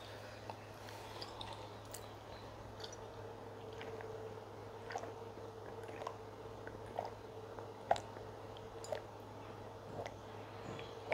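A person chewing food close to the microphone, with scattered soft wet mouth clicks. A faint steady tone comes in about three seconds in.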